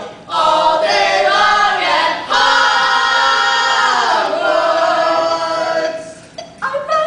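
A small group of mixed voices singing a cappella: a short sung phrase, then a long held chord about two seconds in, then another phrase that dies away near the end.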